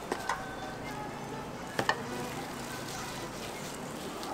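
Hotteok frying on a griddle, a steady sizzle, with sharp clinks of a metal spoon against a steel bowl of sugar filling: twice just after the start and twice again about two seconds in.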